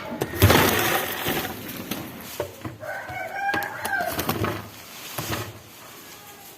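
A loud scuffling noise near the start, then a rooster crowing once: one drawn-out call of about a second with a slightly arching pitch.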